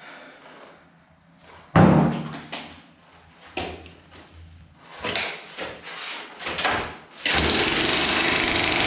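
Heavy knocks and clatter of broken concrete, the loudest about two seconds in, with several smaller knocks after it. A little past seven seconds a power tool starts up and runs steadily.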